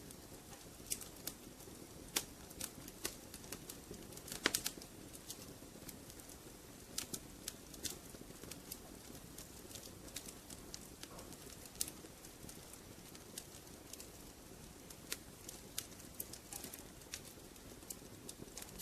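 Wood fire crackling in a fireplace: irregular sharp pops and snaps, a few each second, with a louder cluster of pops about four and a half seconds in, over a soft, steady hiss of the flames.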